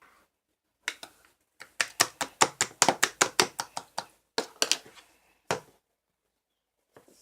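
A quick run of sharp taps, about five or six a second, with a short break partway through and a last few taps after it.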